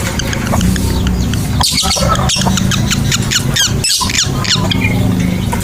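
Lovebirds chattering in a fast run of high, sharp chirps and short falling squeaks, thickest in the middle, over a steady low hum. It is the long 'ngekek' chatter used as a bait call to set other caged lovebirds calling back.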